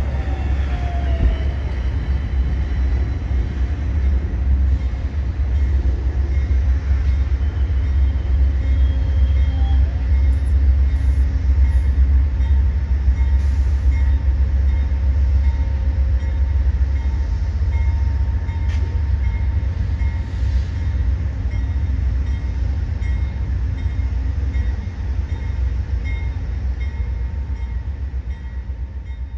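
Train running on the rails: a steady, heavy low rumble with faint high ringing tones over it.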